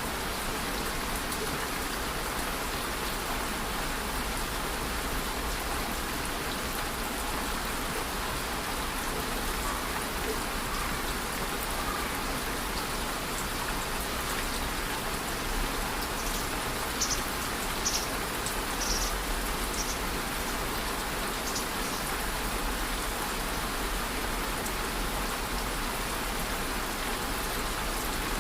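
Steady rain falling, an even hiss of drops on a surface, with a handful of sharper, louder drips a little past the middle.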